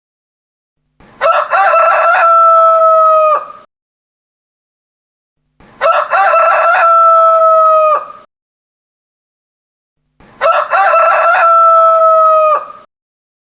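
Rooster crowing: three long crows about four and a half seconds apart, with silence between them.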